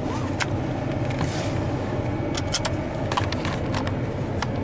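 Steady low engine and road rumble heard from inside the cabin of a truck as it drives, with a few light, irregular clicks.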